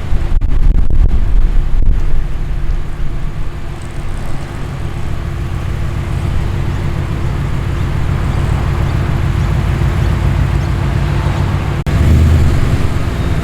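Ford Fairlane's engine running as the car drives in, loudest for the first couple of seconds and then steady. About twelve seconds in there is a brief dropout, after which the engine comes back louder.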